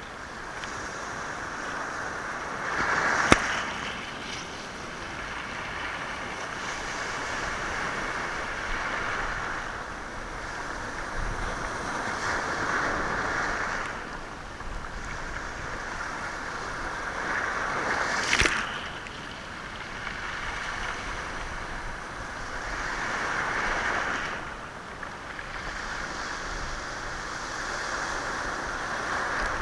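Sea waves washing over a stony shore, rolling and rattling the stones. The surge swells and ebbs about every five seconds. Two sharp knocks of stone on stone come a few seconds in and just past the middle.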